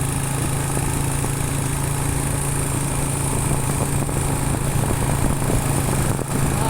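Motorcycle engine running steadily under way, with a steady low hum mixed with wind and road noise; a brief dip about six seconds in.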